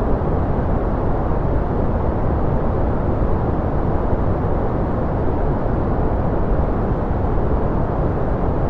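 Steady, unchanging noise track of the white-noise kind, deep and rushing rather than hissy: most of its energy sits low, fading out above about 2 kHz.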